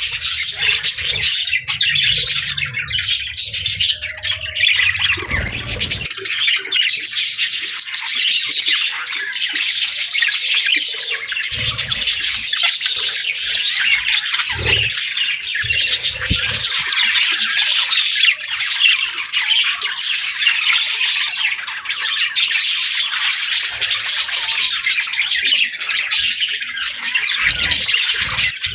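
A group of budgerigars chattering and warbling together: a dense, continuous stream of quick high chirps, squawks and trills, with a few soft low thumps now and then.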